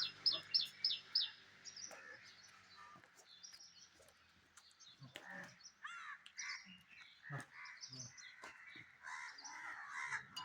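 Several birds calling: a quick run of high, falling chirps in the first second or so, then scattered calls and caws.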